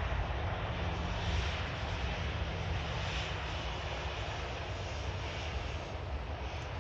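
Boeing 737-800 jet airliner with CFM56-7B turbofan engines, heard as a steady rushing engine noise that slowly fades.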